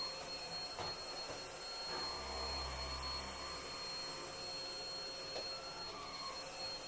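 Vacuum cleaner running steadily with a constant high-pitched whine, with a low hum for a second or so in the middle.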